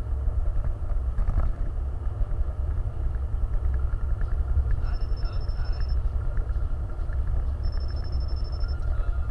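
Vehicle engine and driving rumble, steady and deep throughout. Twice, a high, rapid beeping runs for about a second.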